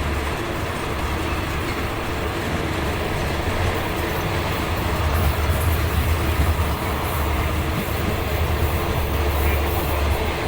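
Passenger train running on the rails: a steady low rumble, with clatter growing a little louder in the second half.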